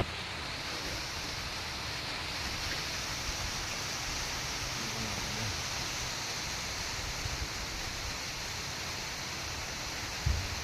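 Rain falling steadily, with one short thump near the end.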